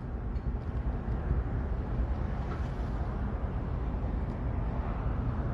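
Heavy equipment engines running at a rail derailment cleanup, a steady low rumble.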